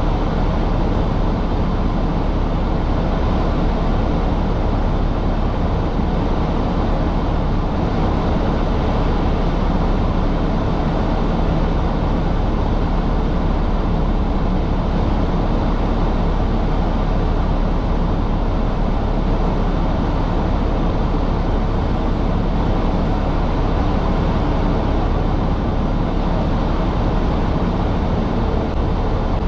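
Steady rumble of a semi-truck's diesel engine heard inside the cab, without a break.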